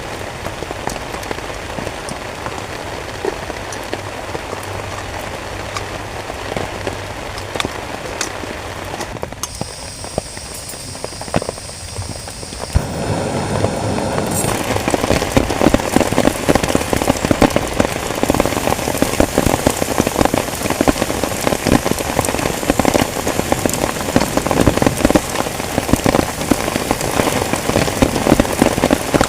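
Heavy rain falling, with many separate drops striking a surface. About thirteen seconds in it turns louder and denser, a closer patter of drops.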